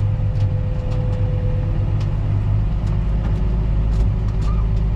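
Old Massey machine's engine running steadily under work, a continuous low rumble with a thin whine that steps down slightly in pitch about two seconds in, and scattered light clicks and rattles.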